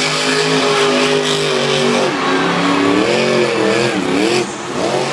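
Monster truck engine running hard, holding a steady pitch for a couple of seconds, then revving up and down in quick swings.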